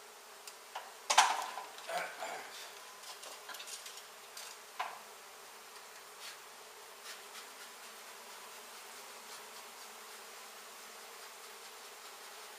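A honey bee colony buzzing steadily, the loose swarm of bees disturbed by an open hive removal. A few sharp knocks and clatters of handling sound in the first five seconds, the loudest about a second in.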